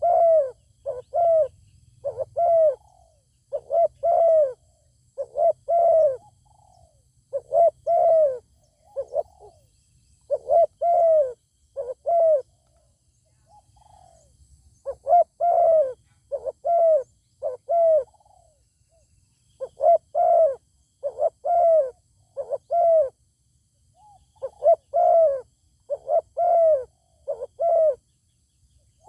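Spotted doves cooing: deep, arched coo notes repeated in runs of three to six, with short pauses between the runs.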